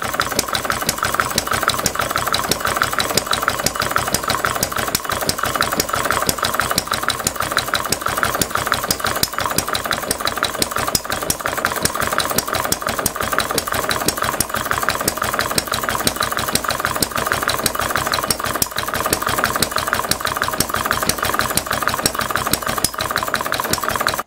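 Small model open-crank stationary engine running steadily, its rapid firing strokes coming in an even stream of pulses.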